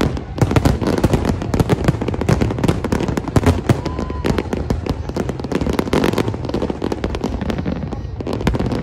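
Fireworks display: a dense, continuous barrage of aerial shell bursts, with rapid overlapping bangs and crackling.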